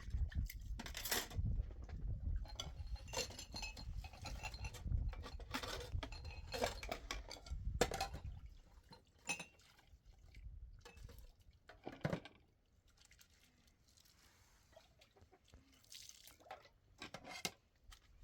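Dishes and utensils clinking and knocking as they are handled, in scattered strikes throughout. A low rumble runs under the first half, and the clinks thin out after it stops.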